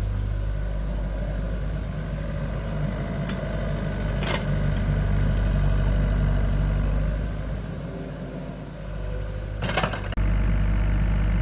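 Excavator's diesel engine running steadily, with sharp knocks about four seconds in and again near the end.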